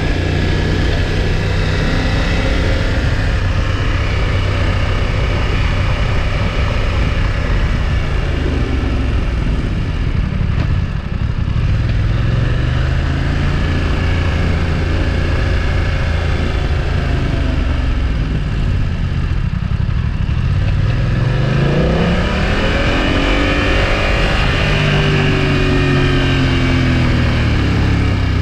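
BMW F900XR's parallel-twin engine and exhaust while riding, heard onboard: running at a fairly steady speed, then about three quarters of the way in accelerating hard with the pitch climbing, easing off, and climbing again near the end.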